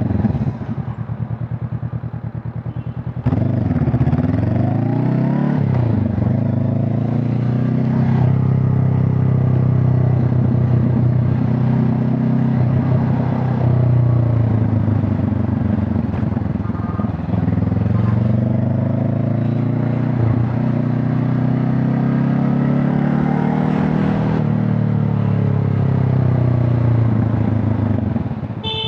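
Honda CB500 Hornet's parallel-twin engine and exhaust running under way. About three seconds in it gets louder, and the revs then rise and fall several times as the bike pulls and shifts through the gears.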